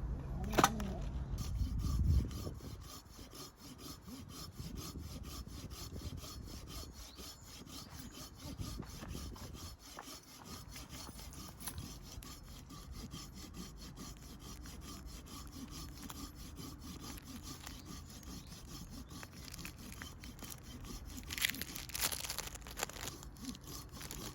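Hand saw cutting firewood: steady, rapid back-and-forth rasping strokes, with a sharp knock about a second in and a few louder knocks near the end.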